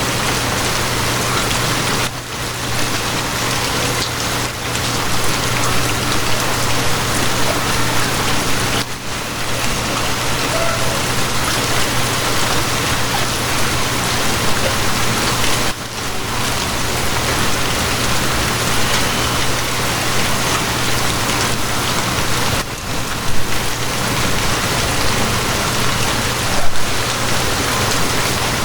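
Steady rain, with a low constant hum underneath; the sound dips briefly a few times.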